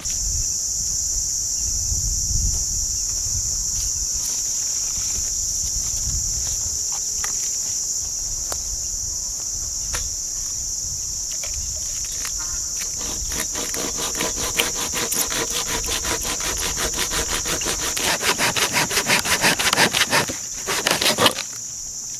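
A steady high-pitched insect drone, with a hand saw cutting wood in quick back-and-forth strokes starting about halfway through and getting louder toward the end.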